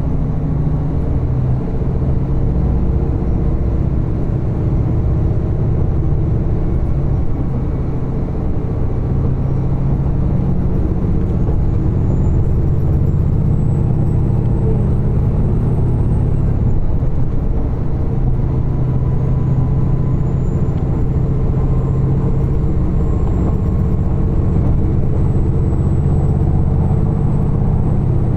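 Steady low rumble inside a diesel train's passenger cabin as it runs along the line: engine and wheels on the track. A faint high whine rises in partway through, breaks off, then returns.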